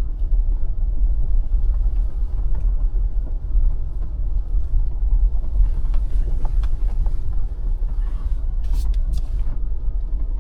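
Steady low road rumble inside a car's cabin while driving with the windows rolled up, with a few short clicks and scrapes between about six and nine seconds in.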